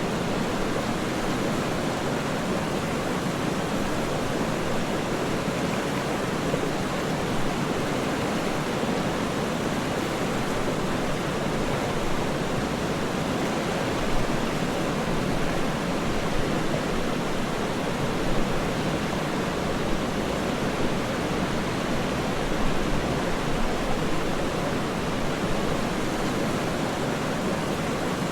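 Waterfall: a steady, even rush of falling water, with a few slight swells in the second half.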